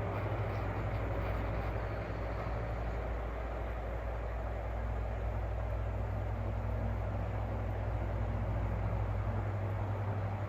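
Electric fan running: a steady motor hum with an even rush of air, and no clicking.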